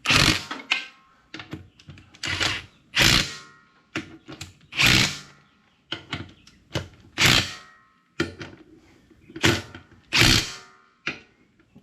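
Impact wrench tightening wheel nuts on a tractor wheel in about seven short hammering bursts, each under a second, with pauses between as it moves from nut to nut in a staggered order.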